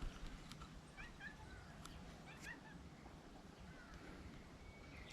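Near silence: faint outdoor ambience with a few short, faint high chirps and light ticks.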